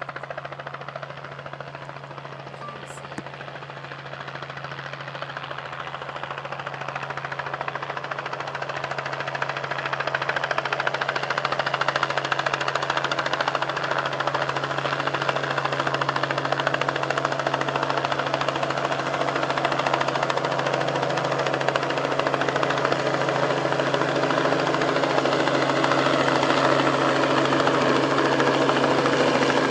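Helicopter flying, growing louder over about the first ten seconds, then steady.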